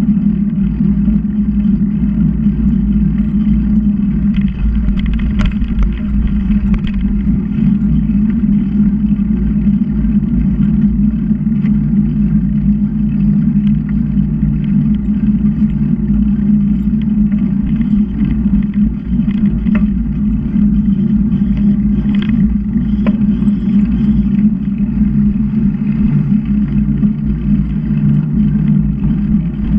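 Steady low rumble of wind buffeting the microphone of a camera on a moving bicycle, with a few faint clicks.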